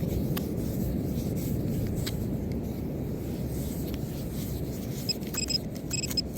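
Sand being rubbed and sifted by hand over a steady low outdoor rumble. From about five seconds in, a metal-detecting pinpointer gives short, high, repeated beeps as it closes in on the target.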